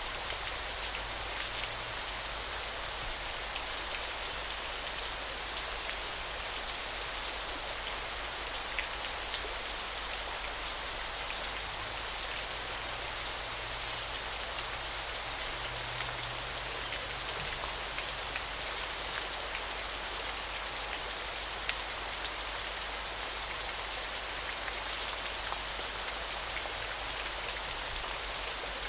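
Steady rushing water, a dense even hiss like a river or heavy rain. From about six seconds in, a thin high buzz comes and goes in stretches of a second or two.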